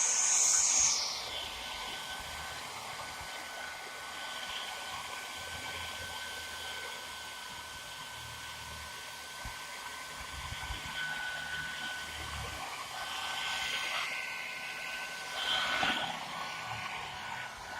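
Hair dryer running steadily with a thin, steady whine over its airflow noise, louder in the first second and again briefly near the end.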